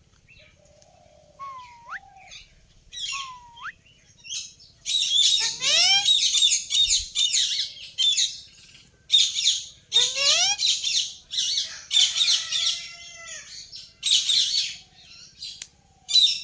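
Indian ringneck parakeet calling: a few short rising whistles, then from about five seconds in a series of loud, harsh screeches and chirps in quick clusters.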